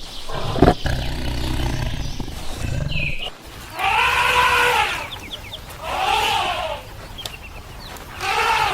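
A farm animal calling three times, each call about a second long and rising then falling in pitch.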